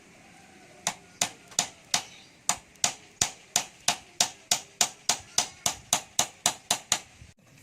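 A tool striking something repeatedly: about twenty sharp, even knocks at roughly three a second, picking up slightly in pace. They start about a second in and stop near the end.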